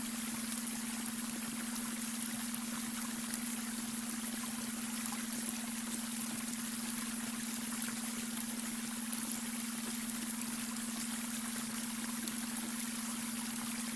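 Babbling brook running steadily, layered with a steady low hum of a beta-wave brainwave tone.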